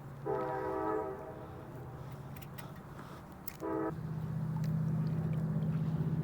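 Distant train horn sounding twice, a longer chord-like blast then a short one about three seconds later, over a steady low drone that grows louder about four seconds in.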